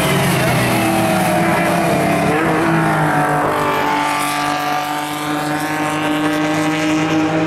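Engines of several classic sports-racing cars running at speed on the circuit, overlapping one another; some engine notes hold steady while others slide down in pitch as the cars pass.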